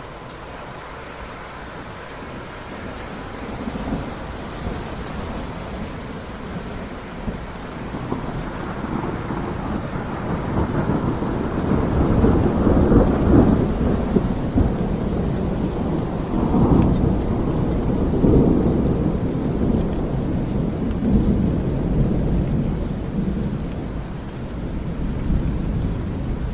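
Steady rain with a long, deep roll of thunder that builds from a few seconds in, is loudest through the middle and slowly fades.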